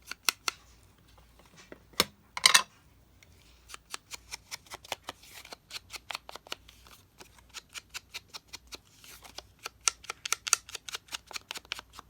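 Paper crafting at a table: a few sharp clicks, a short rustle of paper about two and a half seconds in, then an even run of small snipping clicks, about three a second, from about four seconds in.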